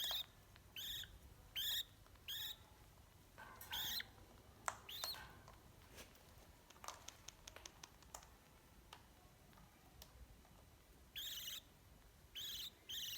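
A young parrot's short, high calls, each arching in pitch, repeated about five times in the first five seconds and a few more times near the end, with a run of faint clicks in between.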